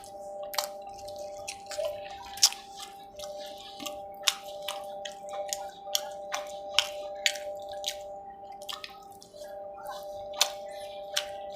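Close-up eating sounds: irregular wet clicks and smacks of chewing and lip-smacking, a dozen or more spread unevenly, over a steady faint hum.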